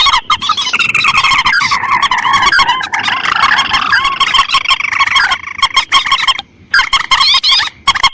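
Recorded calls of paddy-field rails and crakes (mandar and tikusan), played as a bird lure: fast, dense chattering of repeated hooked notes, overlapping, with a brief break a little past the middle.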